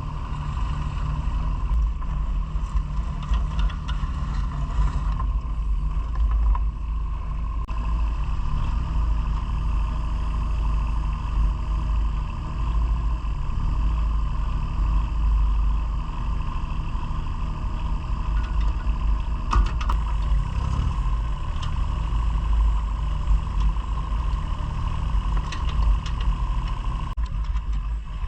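Engine of a working farm machine running steadily, with a low drone and a steady whine above it, and a few light knocks.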